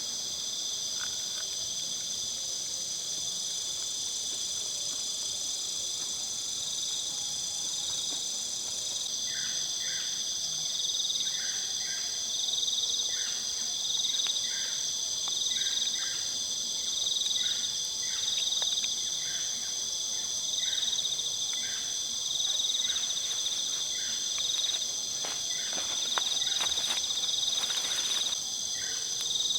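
Steady, high-pitched chorus of crickets and other forest insects. From about nine seconds in, another caller joins with short chirps, roughly one a second, and a few faint clicks come near the end.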